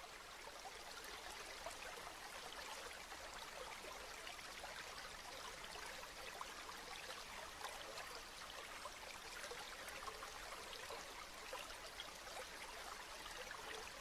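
Steady rain, an even hiss made of countless small drops.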